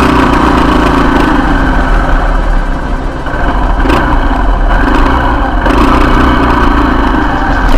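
Motorcycle engine running steadily while being ridden, heard close through an action camera.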